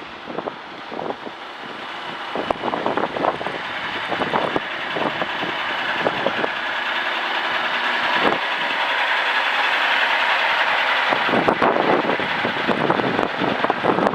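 1986 Kenworth W900 dump truck's diesel engine running, growing steadily louder over the first ten seconds and then holding.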